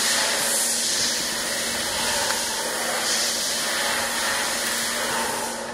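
Welding arc on 1.5 mm A5052 aluminium sheet: a steady, loud hiss with a faint low hum under it, cutting off abruptly near the end.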